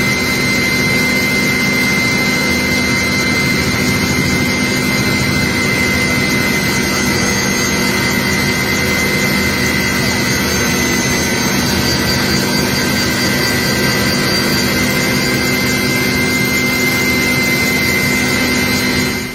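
Turbine engine of a firefighting aircraft running loudly and steadily, with a high, even whine over a rumbling roar.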